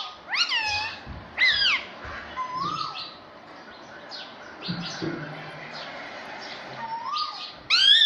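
Pet ringneck parrot calling: a string of short squawks, each rising then falling in pitch. Several are loud in the first two seconds, fainter ones follow through the middle, and a loud one comes near the end.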